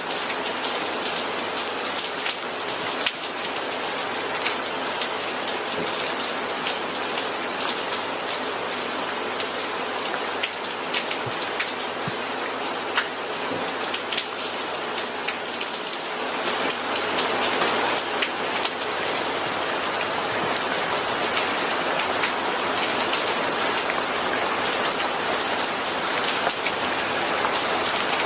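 Steady rain falling, with many small drops pattering on a surface; it grows a little heavier about two thirds of the way in.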